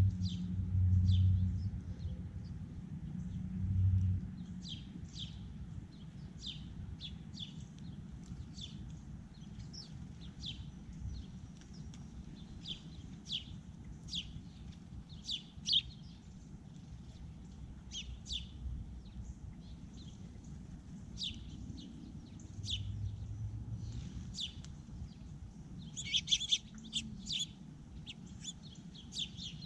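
Small songbirds at a feeder chirping in short, high calls again and again, with a quick flurry of chirps near the end. A low, steady hum sounds under the chirps for the first few seconds and returns faintly later.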